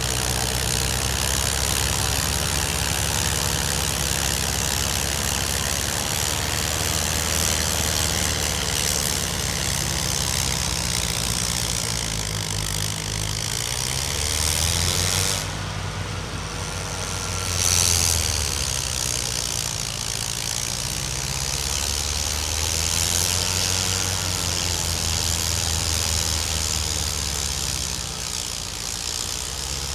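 Snowblower engine running steadily with a continuous hissing rush over it; the engine note shifts briefly about halfway through.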